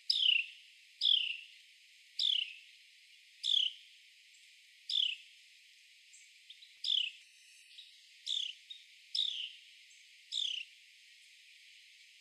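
Male Carolina wren calling: a series of sharp, downward-sliding chirps, about one a second, which stop near the end.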